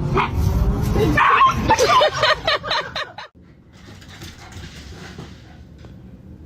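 A dog yipping and whining in short, pitched calls for about three seconds, cut off abruptly, followed by a quieter, steady background hiss.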